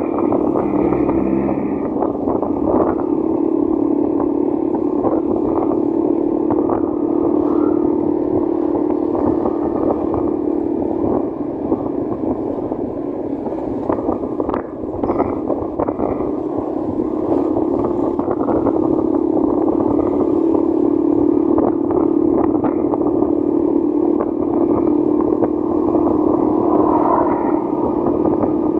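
Motorcycle engine running steadily while riding, with road and wind noise and scattered clicks and knocks; the level dips briefly about halfway through.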